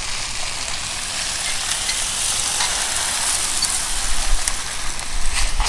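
Steady crackling hiss of light rain falling, with a low rumble building in the last second or two.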